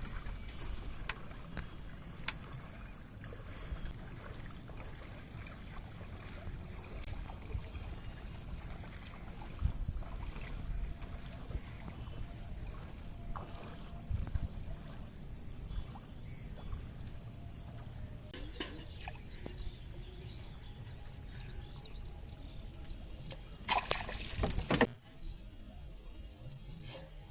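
Small boat on water: low rumble with scattered knocks and water sounds under a steady high-pitched buzzing. About 24 seconds in comes one loud burst of noise, lasting about a second.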